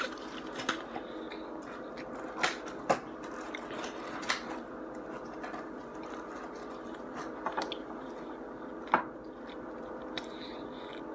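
Close-up chewing and mouth sounds of a man eating takeout chow mein and chicken with a plastic fork. A few sharp clicks and smacks stand out, the loudest nearly nine seconds in, over a steady low hum.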